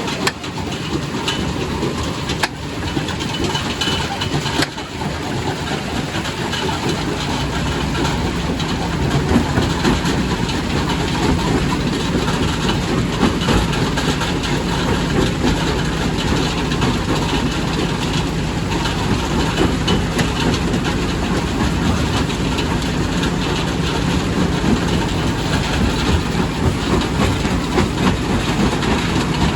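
Quarry primary rock crusher running and crushing stone, a loud continuous mechanical clatter with a few sharp knocks in the first few seconds. A heavier low rumble comes in about seven seconds in.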